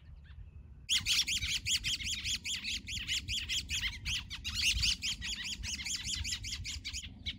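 Small songbirds giving rapid, repeated alarm chirps, several a second, starting about a second in and stopping just before the end: parent birds agitated over their fledgling on the ground.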